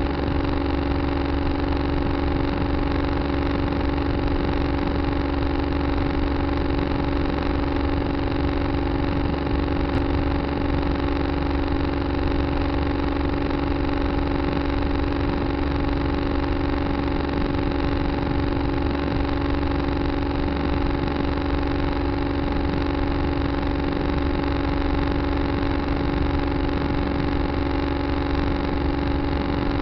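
Tractor engine running at a steady, unchanging speed, a constant drone heard close up from a camera mounted on the tractor.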